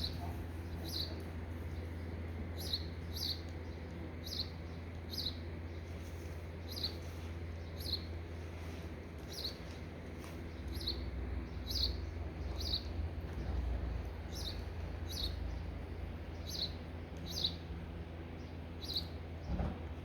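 A bird chirping over and over, one short high note about once a second, over a steady low rumble.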